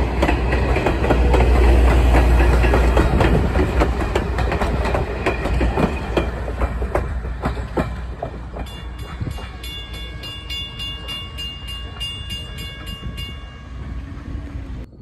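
A train rolling past, its wheels clicking over the rail joints over a heavy low rumble that slowly fades. About two-thirds of the way in, a fast, even ringing starts, about three strokes a second, and stops shortly before the end.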